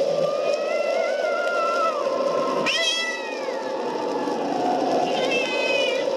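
Cats yowling in long, wavering cries that rise and fall in pitch, about three calls in turn, over a steady rushing background noise.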